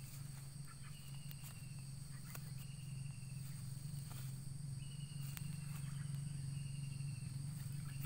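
Outdoor background of wild animals: a short, slightly falling high note repeats about once a second over two steady high insect-like drones and a steady low hum.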